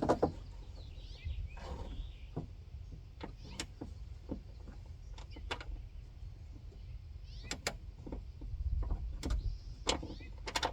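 Irregular clicks and light knocks of metal parts and fasteners being handled and fitted inside a car door while a window regulator is mounted, over a low rumble.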